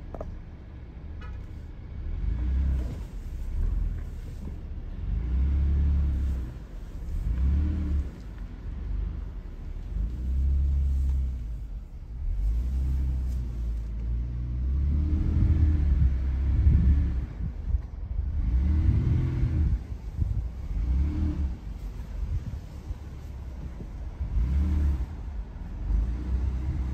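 Vehicle engine running with a deep, steady low end, heard from inside the cab; its pitch rises and falls several times, strongest in the second half.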